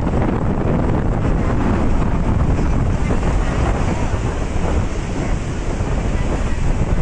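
Strong storm wind buffeting the microphone: a loud, steady, low rush of noise that swells and eases slightly, with no distinct events.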